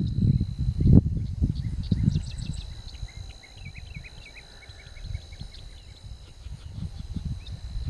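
Wind buffeting the microphone in gusts that ease after about three seconds. Behind it, birds chirp in a quick run of high notes and insects keep up a steady high drone.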